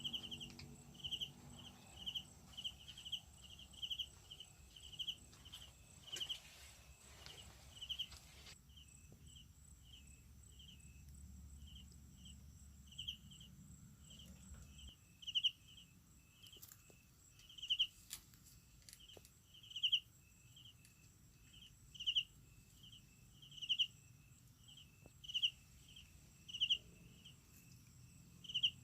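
Night insects: a short high chirp repeating again and again, about twice a second at first, then louder and slower from about halfway through, over a steady thin high buzz.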